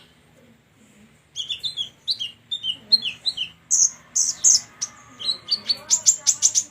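A songbird singing a quick series of short chirps and whistled notes. The song starts about a second in and quickens into a rapid run of sharp notes near the end.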